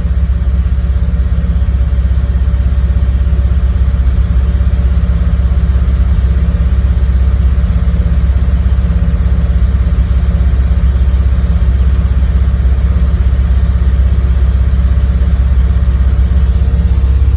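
Car engine with Bosch CIS (K-Jetronic) continuous fuel injection idling steadily during cold-start warm-up, about a minute after starting, with the idle still on the high side.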